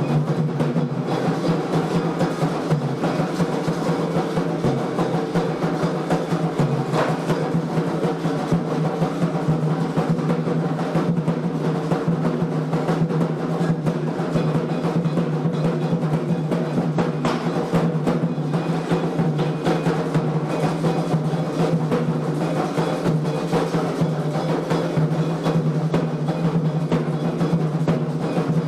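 Candomblé atabaque drums playing a fast, unbroken ceremonial rhythm of dense hand strokes.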